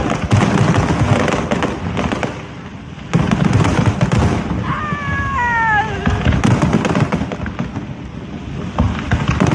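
Fireworks display going off: repeated booms and dense crackling, with a short whistle falling in pitch about five seconds in.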